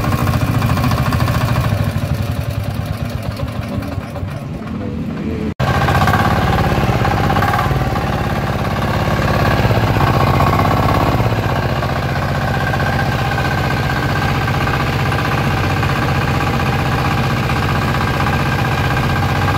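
10 hp diesel engine running with a steady, even firing beat. About five seconds in the sound breaks off sharply and resumes; it then rises for several seconds as the throttle is opened and settles back to a steady run.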